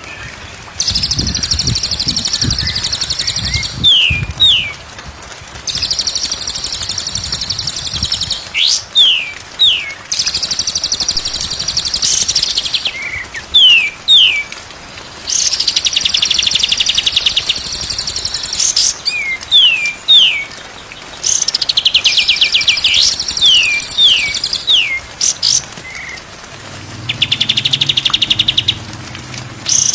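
Songbird singing in repeated phrases: bursts of about two seconds of a high, fast, buzzy trill, each followed by a pair of quick falling whistle notes.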